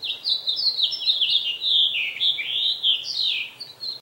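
Small birds chirping: a dense, continuous run of quick, downward-sweeping chirps, several overlapping at once.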